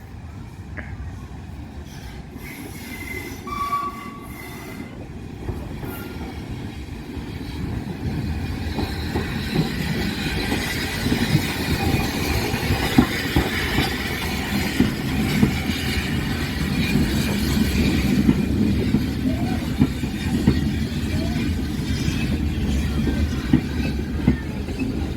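Heritage railway train running on the track, a low rumble with scattered knocks that grows louder about eight seconds in, joined by a high wheel squeal through the middle.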